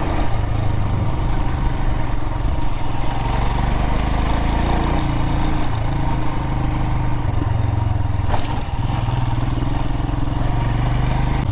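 Adventure motorcycle's engine running under way on a dirt road, its pitch rising and falling a little with the throttle. A single sharp knock about eight seconds in.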